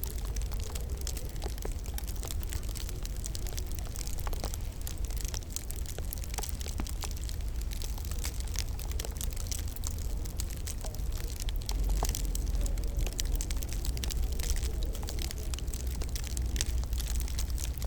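Wood fire crackling in a fireplace: irregular sharp pops and crackles over a low, steady rumble.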